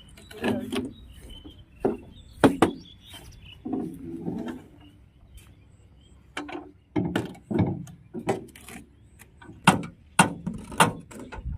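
A series of irregular sharp knocks and clicks, sparse at first and coming thicker and louder in the second half.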